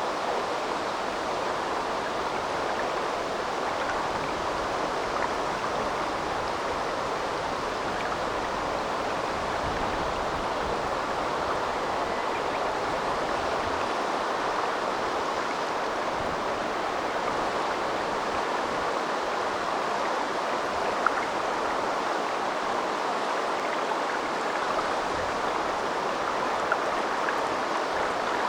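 River water flowing steadily, an even rushing with no let-up. A few faint clicks stand out in the second half.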